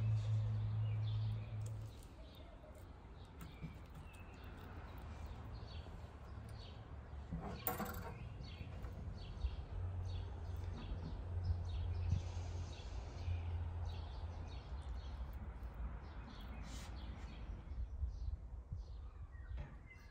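Small birds chirping and calling in short bursts, over a low steady hum, with one brief sharp clatter about eight seconds in.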